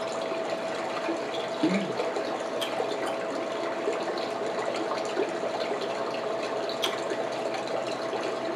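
Steady rushing hiss with a faint steady hum underneath, over which a few small clicks and eating noises come and go while someone eats a seafood boil.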